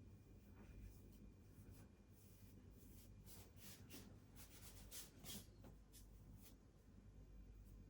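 Faint scraping and rubbing of Polyfilla being worked with hand tools, with a run of short scrapes in the middle, over a steady low hum.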